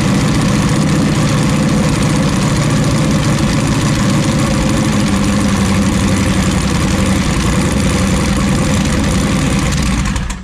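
The mini jet boat's turbocharged engine, just started on E85 fuel, idling loud and steady. It cuts off suddenly near the end.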